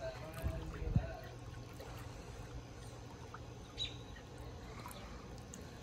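Faint bird chirps over a steady low hum, with a single knock about a second in.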